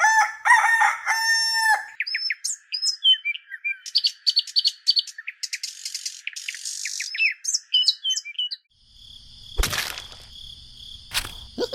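Birds chirping in quick, repeated calls, with chicken-like calls in the first two seconds. A sharp knock comes about ten seconds in.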